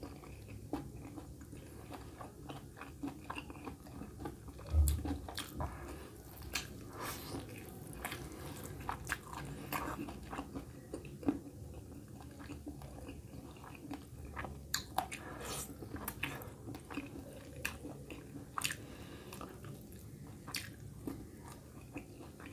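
A person chewing and biting mutton curry with rice, close to the microphone, with many short wet mouth clicks and smacks. There is a single low thump about five seconds in.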